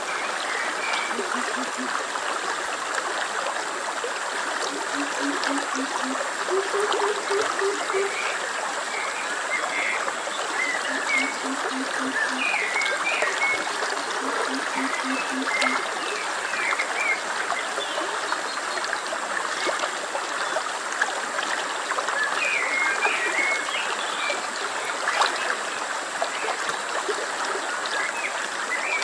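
Stream running steadily, with small birds chirping now and then. In the first half, a few short runs of low, rapid pulsed calls stand out.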